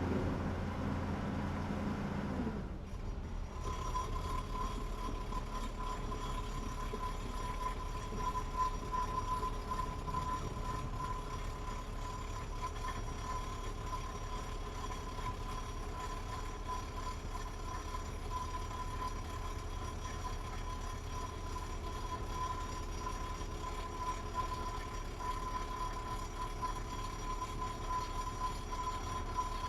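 Heavy diesel construction machinery, an excavator or truck, running with a steady low engine rumble. After about three seconds a steady thin whine joins it and holds throughout.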